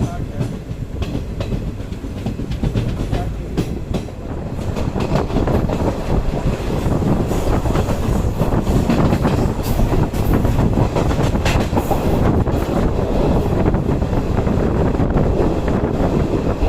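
Passenger express train running on the rails, wheels clicking over rail joints under a steady rumble that grows louder about four to five seconds in.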